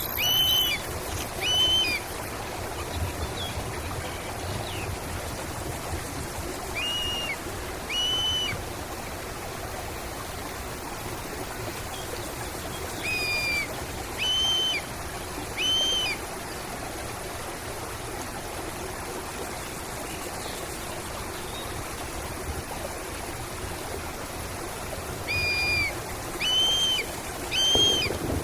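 A bird calling in short, clear, repeated notes, two or three at a time with pauses of several seconds between groups, over the steady rush of running water.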